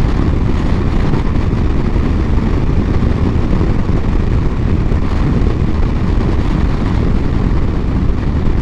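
BMW R1200GS boxer-twin motorcycle ridden at speed, its engine running under load under a heavy, steady rumble of wind on the microphone.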